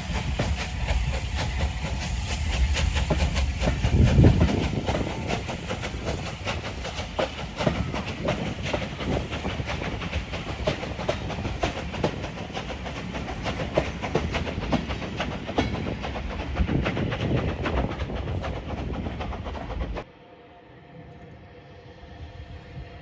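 Steam-hauled train passing close by, wheels clicking rapidly over the rail joints with a hiss of steam. It is loudest about four seconds in, and cuts off abruptly near the end to a much quieter background.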